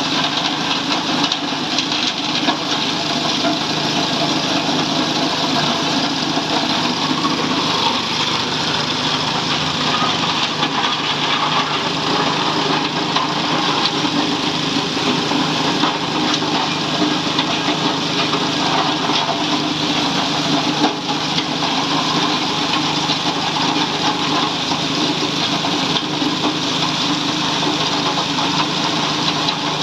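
Ice block crushing machine running steadily, a continuous engine-like drone with a noisy grinding haze that does not let up.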